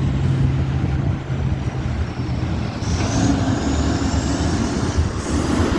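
Vehicle engine and road noise as a vehicle drives off into traffic: a steady low engine hum gives way to an even rumble and hiss. A faint high whine rises slowly from about three seconds in.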